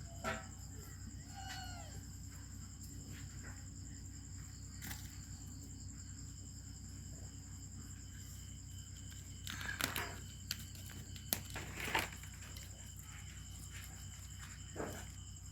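A kitten gives one short mew about a second and a half in, over a steady high-pitched whine and low hum. A few soft knocks and rustles follow between about ten and twelve seconds in.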